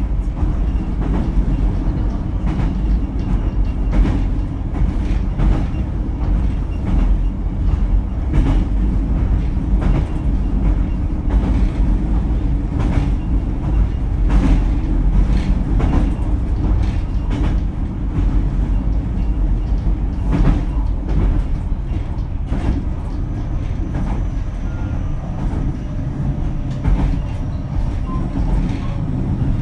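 JR Kyushu BEC819 series battery-electric train running at speed, heard aboard the car: a steady low rumble of wheels on rail with irregular clacks over rail joints.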